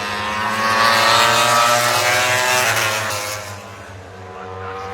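MotoGP racing motorcycle engine at high revs going past, rising in pitch as it accelerates, with a gearshift about two and a half seconds in and then fading away. Another bike starts to approach near the end.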